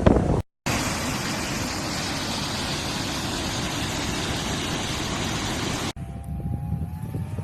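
Steady rushing noise of storm wind blowing. About six seconds in it cuts off suddenly to a quieter low rumble with a faint steady hum.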